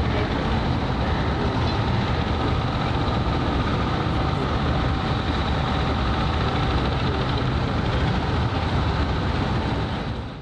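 Steady low mechanical rumble with a constant hum, fading out abruptly at the very end.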